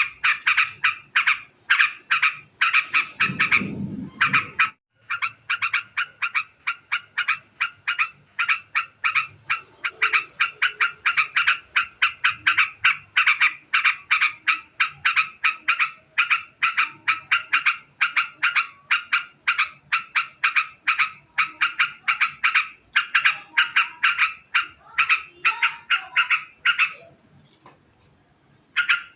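Yellow-vented bulbul (trucukan) giving a long, very fast chattering call: a rapid run of repeated short notes, broken briefly about five seconds in and stopping a couple of seconds before the end. A brief low rumble sounds under it about three to four seconds in.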